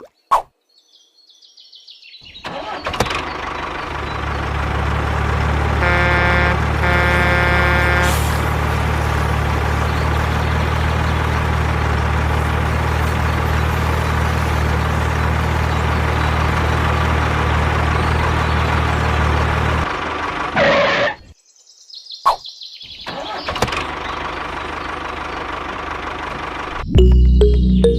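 Vehicle engine starting up and running steadily, with a horn sounding twice in quick succession about six seconds in. The engine cuts off suddenly about twenty seconds in.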